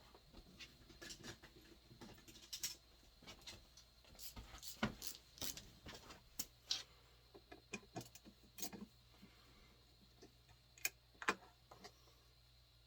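Scattered light clicks and taps of hand tools and small metal parts being handled while disconnecting the wiring from an electric water heater element.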